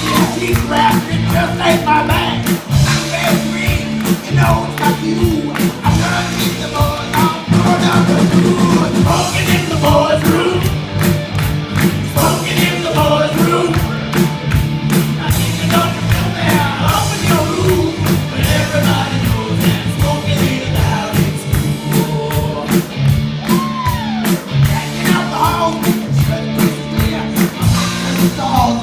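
Live rock band playing, with a drum kit keeping a steady beat under singing.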